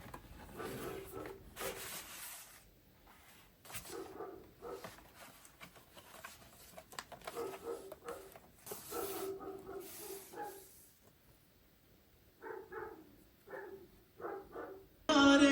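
A dog barking in short, separate barks, with a quick run of barks near the end.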